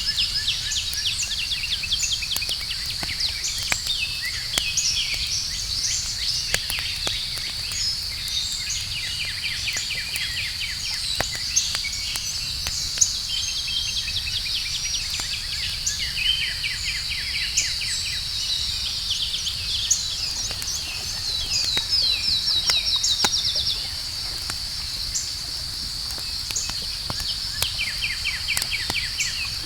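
Campfire crackling with scattered sharp pops, over a steady high chorus of night insects and repeated fast trilling calls.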